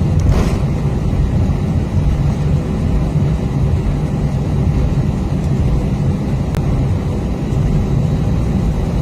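Steady low rumble inside the cabin of an Airbus A320-232 on the ground before take-off, its IAE V2500 engines at idle.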